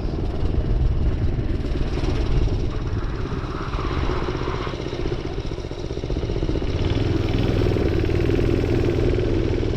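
Minibike engine running under way, easing off briefly about five seconds in and pulling louder again from about seven seconds.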